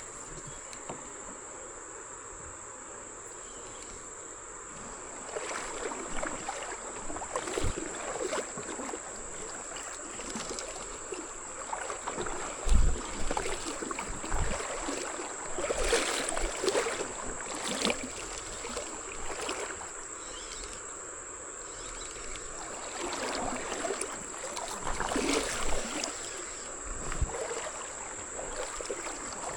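Creek water running around a kayak, with irregular splashes and knocks from paddling or handling gear in the boat. One heavier thump against the hull comes about 13 seconds in.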